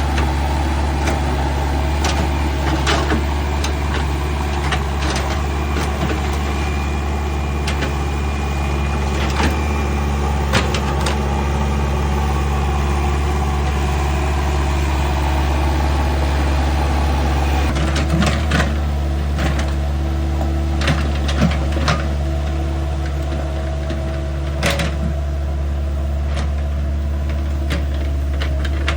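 An engine running steadily at a constant speed, with scattered sharp clicks and knocks over it.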